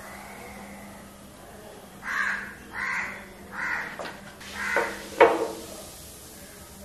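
A bird calling four times over about three seconds, each call short and coarse, followed by a sharp click.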